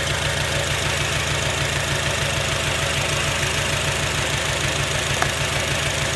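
Misfiring 2006 Acura TSX four-cylinder engine idling steadily with an even low pulse. Its speed doesn't drop when this ignition coil is unplugged, which marks this cylinder as the dead one: a bad coil or the spark plug beneath it. A light click about five seconds in.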